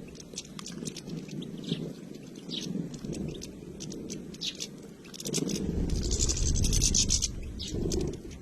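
A flock of European goldfinches chirping and twittering, with a dense burst of calls about six to seven seconds in. A low rumble underneath grows louder about five seconds in.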